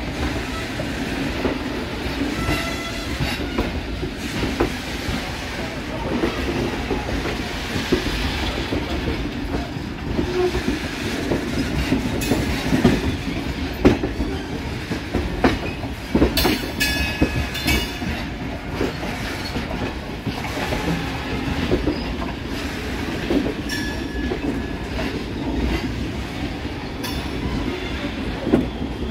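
Indian Railways train running along the track: a steady rumble with wheels clicking over rail joints, and a few brief high-pitched wheel squeals, clearest about seventeen seconds in.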